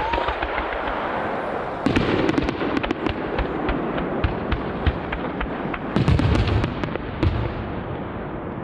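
Aerial firework shells bursting, with heavy booms about two seconds in and again about six seconds in, and a dense crackle of sharp pops between and after them. A short rising whistle from a climbing shell is heard at the very start.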